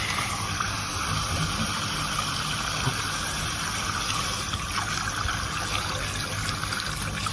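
Steady rush of running water, with a low hum beneath it.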